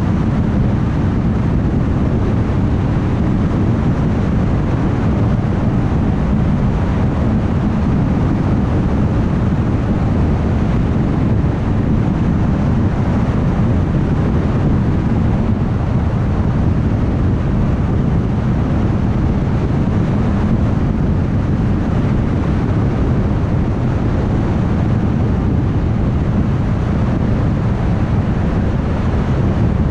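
A car driving steadily on a highway, with a constant low tyre and road rumble and wind noise that never changes.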